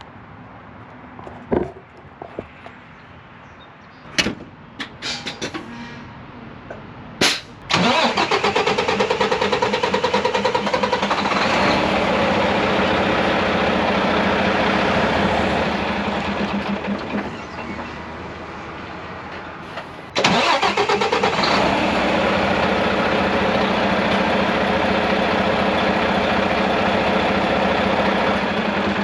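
Knocks and a sharp clunk, then the Mack MP8 13-litre diesel is cranked for a long time from about eight seconds in, a fast pulsing churn. It drops back about seventeen seconds in, then comes on loudly again at twenty seconds. This is the long crank of the hard-start fault, which the owner says means something is not right.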